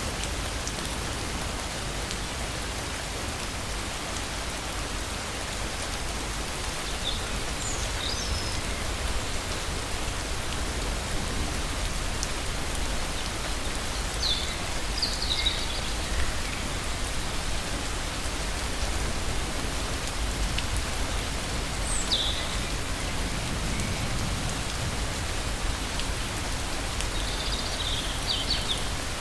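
Steady heavy rain, with a constant low rumble beneath it. Brief high-pitched chirps cut through four times, roughly every seven seconds.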